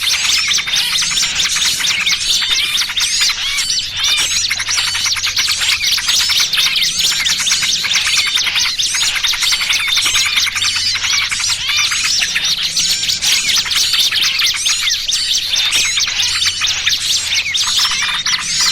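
Dense, unbroken chorus of many small songbirds chirping and twittering over one another. It is a bird-trapping lure mix of noisy small-bird chatter combined with the calls of a trapped small bird, meant to draw in small wild birds.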